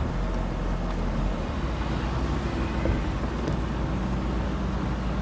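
Steady low rumble of a car's engine and tyres heard from inside the car as it drives slowly.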